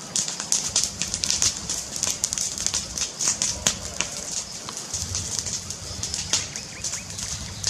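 Fireplace crackling: a dense, irregular run of sharp pops and snaps over a low steady rumble from the fire, the rumble growing louder about five seconds in.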